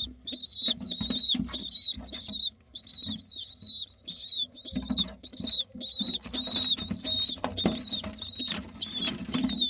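Pigeon squabs giving high-pitched squeaking begging calls, almost without a break and with a couple of short pauses.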